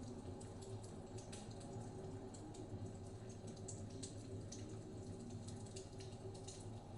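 Wood fire crackling in a fireplace, with irregular small pops and snaps, over a steady low rumble of blizzard wind.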